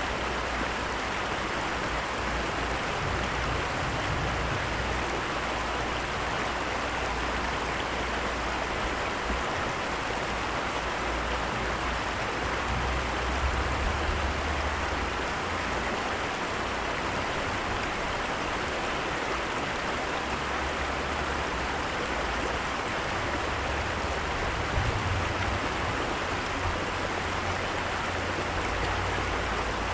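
Heavy rain falling, a steady even hiss, with low rumbles twice, once midway and once near the end.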